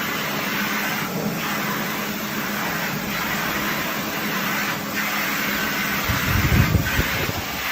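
Washing machine running: a steady hum with soft swishes every few seconds, and louder low rumbling about six seconds in.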